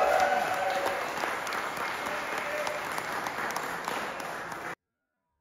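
Audience applauding, with a voice over the clapping at first; the applause cuts off suddenly near the end.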